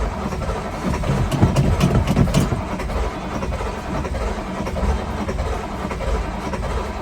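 Cold diesel engine cranking over on its starter motor for several seconds without catching. It stops near the end. The engine is too cold to fire because its block heater was left unplugged.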